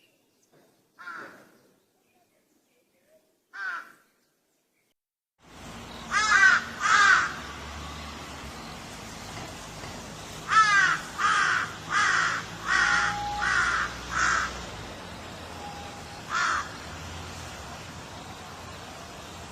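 Crows cawing. Two lone caws over silence come first; then, over a steady background hiss, a second recording brings two caws, a run of about six caws in quick succession, and one more near the end.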